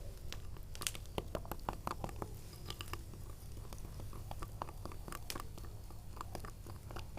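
Irregular small clicks, taps and crackles of hands mixing spices into oil for a marinade, over a low steady hum.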